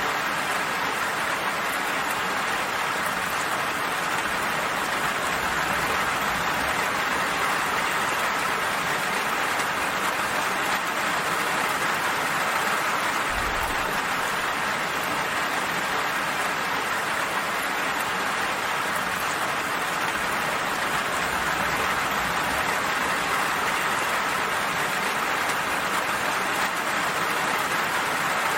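Steady rain falling, an even, unbroken wash of drops.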